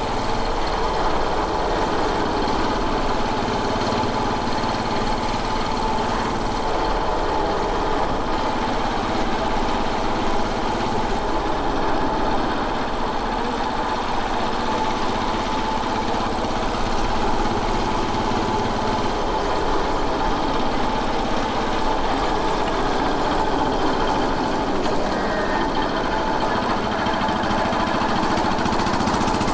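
Royal Enfield Bullet 500's single-cylinder four-stroke engine running steadily.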